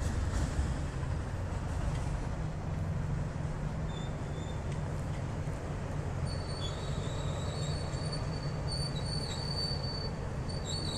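A train running over a railroad bridge with a steady low rumble; about halfway through, its wheels start squealing in thin, high tones.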